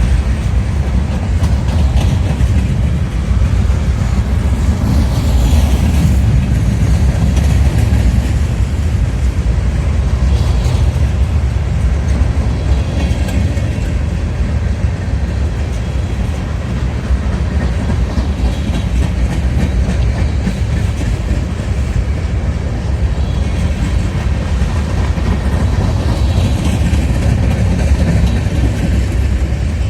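Freight train rolling past, its cars giving a steady, loud low rumble on the rails.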